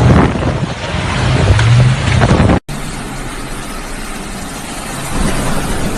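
Storm wind gusting hard against the microphone with a low rumble of street traffic. About two and a half seconds in the sound cuts off abruptly and a steadier rush of wind and traffic noise follows.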